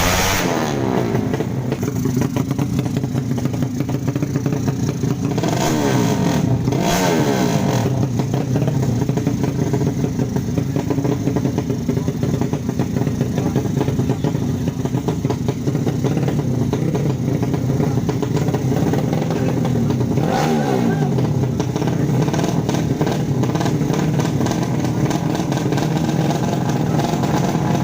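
155 cc drag-racing motorcycle engines running at high revs, with glides up and down in pitch about five to seven seconds in and again around twenty seconds in.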